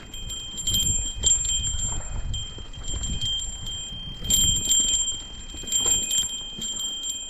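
A small metal bell jingling and ringing on, with irregular ticks and jangles as it is shaken, over a low rumble of movement.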